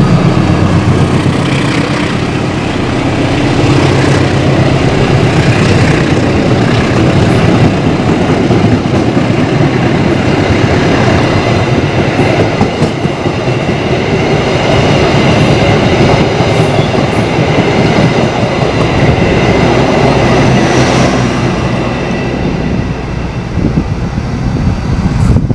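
Passenger train passing at close range: a loud, steady rumble of its wheels and carriages running on the rails.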